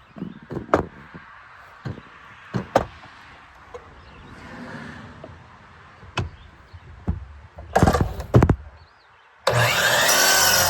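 A series of sharp knocks and taps, then about nine and a half seconds in a power saw starts cutting through wood, loud and steady.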